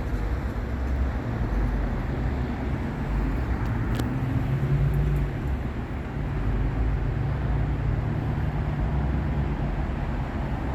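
Freeway traffic noise: a steady rumble of passing vehicles and engines.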